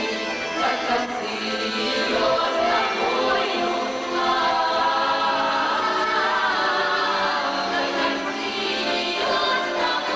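A female vocal ensemble singing a slow Russian song in several-part harmony.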